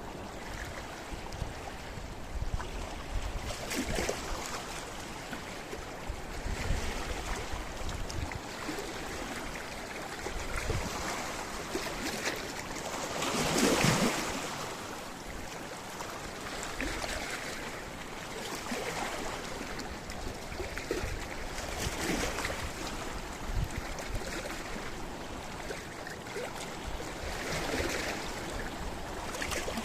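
Sea waves washing against a rocky shore: a steady rushing wash that swells every few seconds, with the biggest surge about halfway through.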